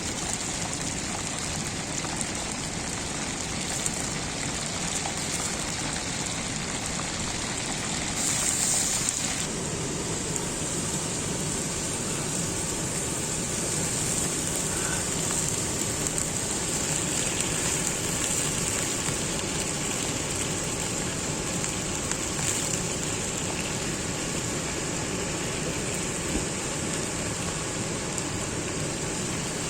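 Hot oil sizzling steadily with small crackles as a whole chicken deep-fries.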